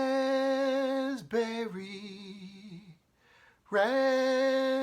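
A man's voice singing a short unaccompanied jingle: a long held note, then a lower phrase stepping down, sung twice.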